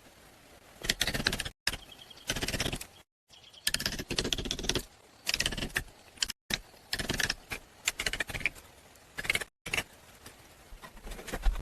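A run of short bursts of rapid clattering and scraping, about seven in all, each half a second to a second long and broken off abruptly.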